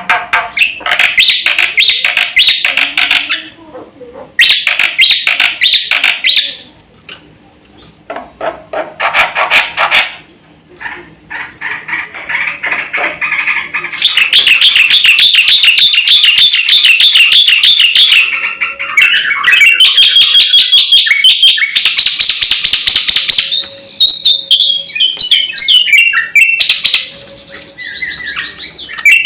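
Black-winged starling (jalak putih) in full, vigorous song: loud bursts of fast, chattering repeated notes broken by short pauses, then a long unbroken run of rapid trilled phrases about halfway through, followed by more varied phrases.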